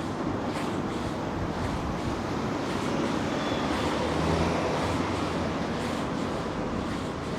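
Steady city street noise on a rainy night: traffic running and the hiss of rain and wet roads, swelling slightly about halfway through as a vehicle passes.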